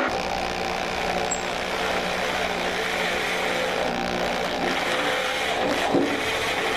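Power drill running steadily, turning a 1-inch reamer that cuts out the bore of a newly welded-in loader arm bushing.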